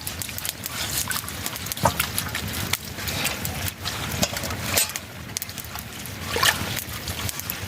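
Water trickling and dripping, with scattered clicks and knocks at irregular intervals.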